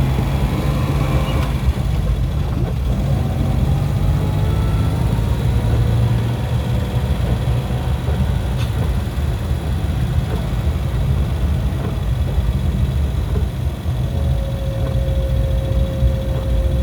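Steady low engine rumble of a running motor vehicle, with a few faint tones sliding slowly in pitch above it.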